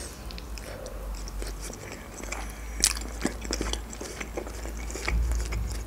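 Biting into and chewing a khinkali, a Georgian meat dumpling, close to the microphone, with scattered short mouth clicks.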